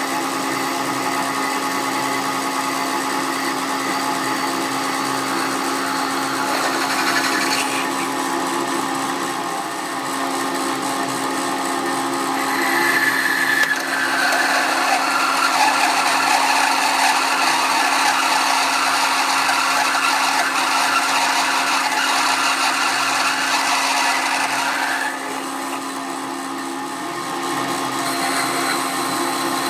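A power tool or machine tool runs continuously with a steady motor hum. From about 12 to 25 seconds a louder, harsher cutting sound rises over it, then drops back.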